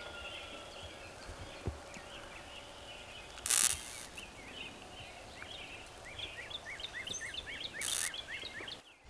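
Small birds chirping, with a quick run of repeated chirps, about four a second, near the end. Two brief rustling noises cut in, one about halfway through and a louder-sounding one near the end.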